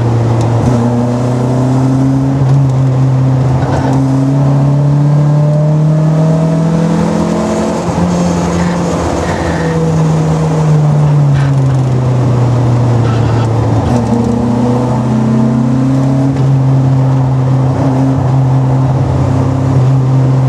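Simca 1000 Rallye's rear-mounted four-cylinder engine, heard from inside the car, pulling hard at high revs. The revs climb for several seconds, drop sharply at a gear change about eight seconds in, rise and fall again, then hold steady.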